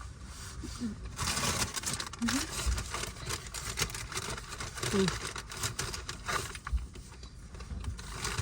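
Paper fast-food packaging rustling and crinkling while food is handled, densest between about one and four seconds in, with a few short "mm" murmurs from the eaters.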